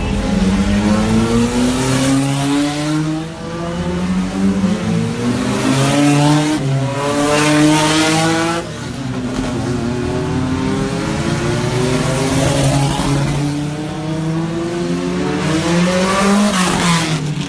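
Several touring race cars running past at speed one after another, their engines revving, each note rising and then falling as the car goes by. The loudest passes come about halfway and near the end.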